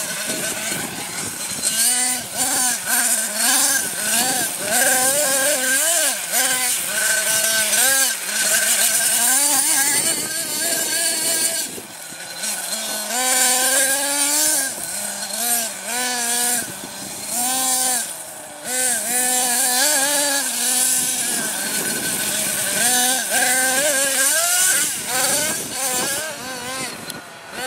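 Nitro RC monster truck's small two-stroke glow engine revving up and down in repeated throttle bursts, with a couple of brief drops back to idle.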